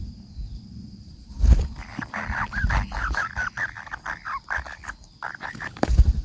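Nestlings begging: a rapid, continuous run of short high chirps for about four seconds, starting about two seconds in. A loud knock comes just before the calling starts, and another near the end.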